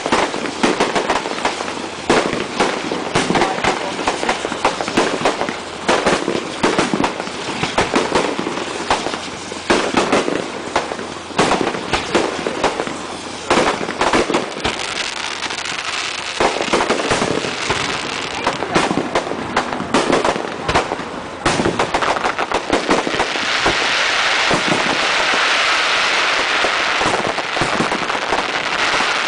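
A fireworks display: a long run of rapid bangs and pops, irregular and overlapping. About two-thirds of the way through, this gives way to a dense, steady hiss.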